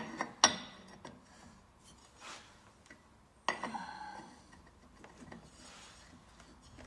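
Metal clanking and scraping as a pulley is fitted to a VW air-cooled engine: two sharp knocks right at the start and about half a second in, then a ringing metal clank about three and a half seconds in, with lighter scrapes between.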